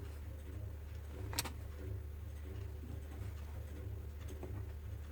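A steady low hum with one sharp click about a second and a half in, the click of a multimeter's rotary range selector being stepped up to a higher resistance range.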